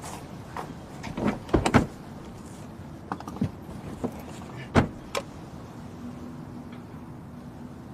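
A string of short clicks and knocks inside a car, about ten over five seconds, with two louder knocks, followed by a faint steady low hum.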